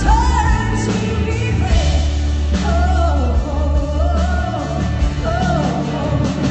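A singer holding long notes with vibrato over loud band accompaniment with a heavy bass line.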